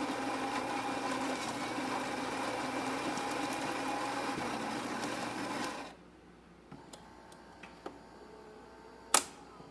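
Saeco super-automatic espresso machine working through a test shot. Its motor runs steadily and stops abruptly about six seconds in, then a few light clicks follow, with one sharp click near the end.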